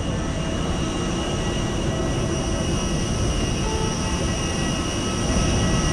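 Aircraft engines running, a steady loud drone with a thin high whine.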